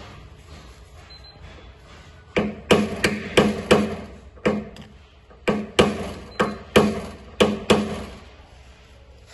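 Paintless dent repair tapping: a hammer striking a tap-down tool on a car body panel, about a dozen sharp taps in two quick runs, each with a short ring.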